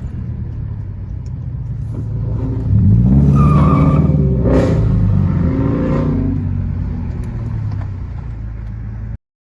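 Car engine rumbling, then revved hard about three seconds in, its pitch climbing and falling for a few seconds before easing back to a lower rumble. The sound cuts off suddenly near the end.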